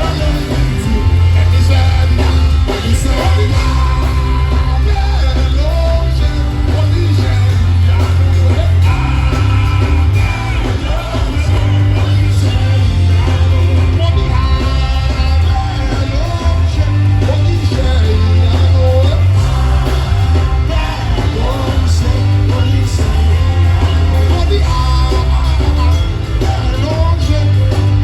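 Live worship music: a band with a heavy, steady bass line, with voices singing over it.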